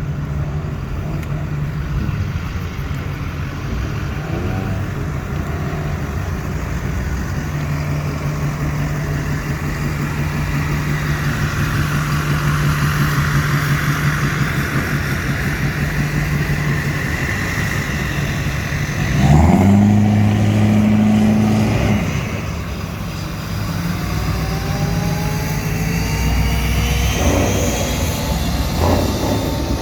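Car and truck engines running. About two-thirds through, one engine is suddenly revved hard for a few seconds. Near the end, engines rise in pitch as vehicles accelerate away.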